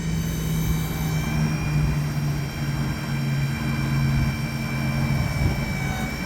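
Ford F-550 bucket truck running to power the Altec boom's hydraulics as the boom is worked. It makes a steady hum with a faint high whine above it, and the hum eases shortly before the end.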